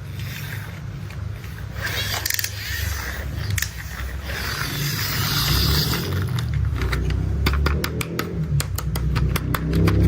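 Plastic toy construction vehicles being handled: scraping and rolling noises, then a rapid run of tapping clicks in the last few seconds, over a steady low rumble.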